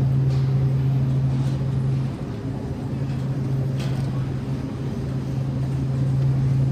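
Steady low hum of a supermarket's background machinery, with a few faint clicks; it dips briefly about two seconds in.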